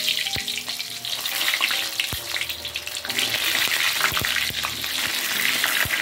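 Purple eggplant pieces deep-frying in hot oil in a wok: a steady crackling sizzle with a few sharp pops.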